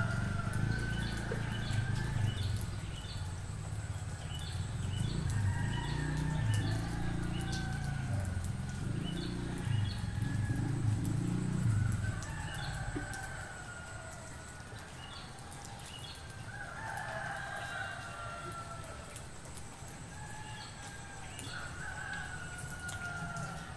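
Several village roosters crowing in turn, each crow a drawn-out wavering call, repeating every few seconds. Quick high chirps from a small bird repeat through the first half over a steady high insect drone, and a low rumble fades out about halfway through.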